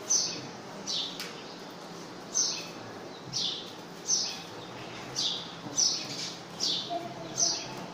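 A bird calling over and over: short, high chirps that fall in pitch, about one a second.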